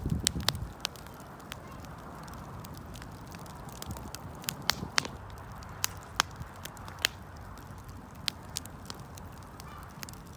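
Wood fire crackling: irregular sharp pops and snaps, a few of them much louder, over a steady low rush of burning. A brief low rumble comes right at the start.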